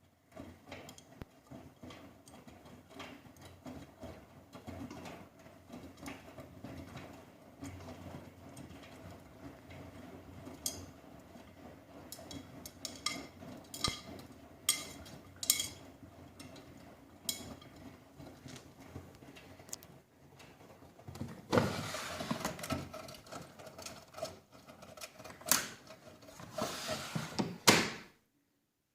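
Miele Softtronic W 3657 washing machine running a wash cycle: a steady motor hum with scattered clicks and knocks as the drum turns the laundry. Two louder rushing stretches come near the end, and the sound cuts off abruptly.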